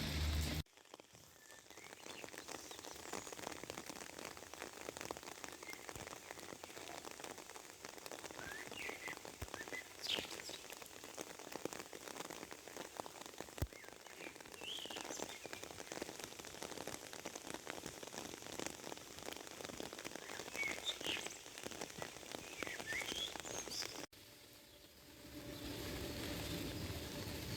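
Steady rain pattering, with a few short rising bird chirps scattered through it. The sound changes abruptly about half a second in and again near the end, where a different recording cuts in.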